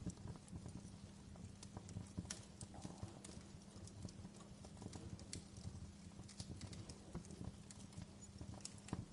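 Campfire burning: a steady low rumble with frequent, irregular crackles and pops.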